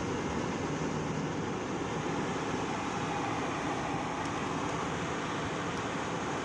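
Freight train rolling past a railroad crossing, a steady, even rumble of the cars going by, heard from inside a waiting car.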